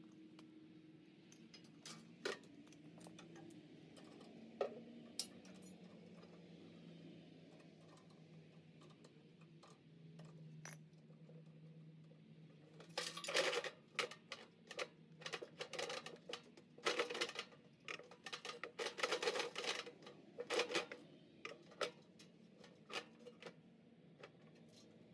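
Metal clinks and clatters from tools and sheet-metal parts being handled. A few sharp clicks come early, then a dense run of quick knocks and rattles about halfway through, over a faint low hum.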